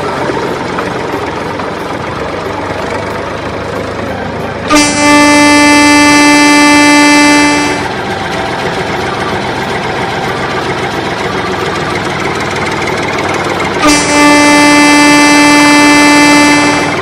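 A vehicle horn sounding twice, each a steady, unwavering blast of about three seconds, the first about five seconds in and the second near the end, over a constant background hiss.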